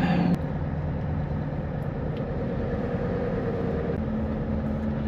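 Heavy truck's diesel engine running steadily; its pitch drops slightly about half a second in and rises again near four seconds in, as the engine speed changes.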